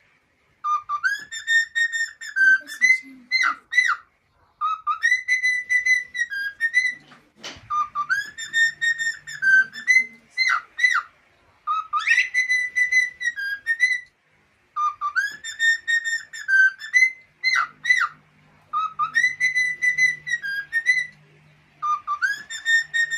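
Cockatiel whistling a short learned tune over and over, the same rising-and-falling phrase every three to four seconds.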